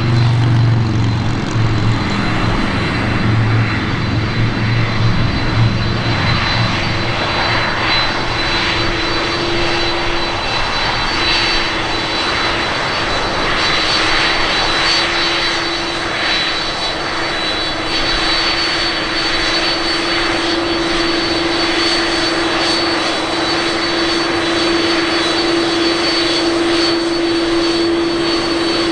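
Jet airliner engines running loud and steady, with a steady hum and a thin high whine over dense engine noise; a deeper rumble fades in the first few seconds.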